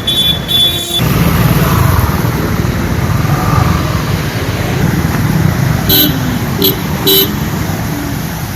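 Vehicle horns honking in short toots over steady road traffic noise: a quick series of toots in the first second, then three more short ones about six to seven seconds in.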